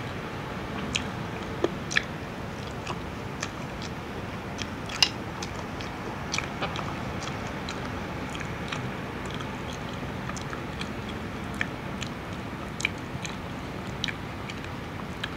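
Close-up chewing and biting of batter-fried fish, with scattered soft crunches and mouth clicks over a steady low hiss.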